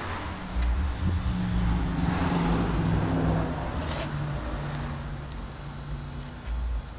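2006 Ford Mustang's 4.0-litre V6 engine idling steadily.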